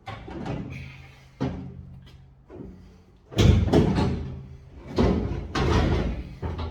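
A heavy metal door being handled: a series of knocks, bangs and sliding clatter, loudest about three and a half seconds in and again around five to six seconds in.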